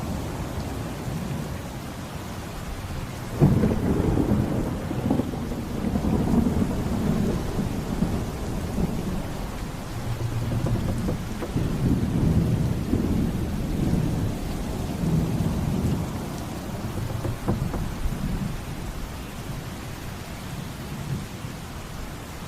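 Steady heavy rain with thunder: a sharp clap about three and a half seconds in, then long low rolling rumbles that swell again midway and fade toward the end.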